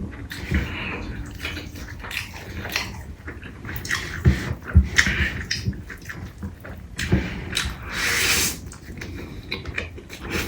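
Close-miked eating of chicken curry and biryani: irregular wet chewing, smacking and clicks, with one longer, louder noisy sound about eight seconds in.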